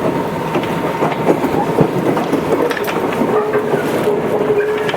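Tobu 8000 series electric train running along the line, with wheels clacking over rail joints. A steady tone comes in about two-thirds of the way through.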